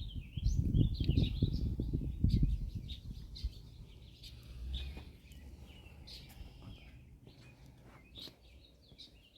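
Small birds chirping repeatedly in short calls. A low rumble is loudest for the first three seconds, then fades.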